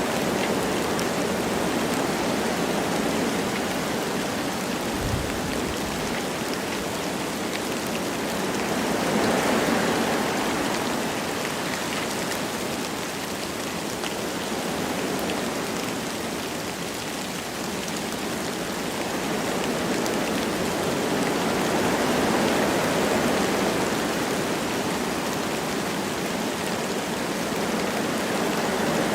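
Wind blowing through forest trees with light rain falling, a steady rushing that swells in gusts about a third of the way in and again about three quarters through, with fine raindrop patter throughout.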